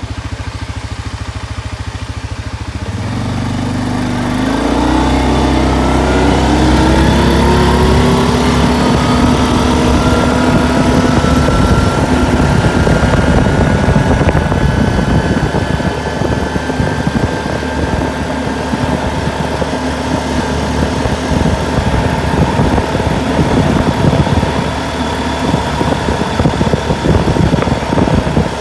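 Four-wheel-drive vehicle's engine revving up as it accelerates, from about three seconds in, its pitch rising for several seconds and then holding steady at speed, with rough tyre and road noise from a dirt road.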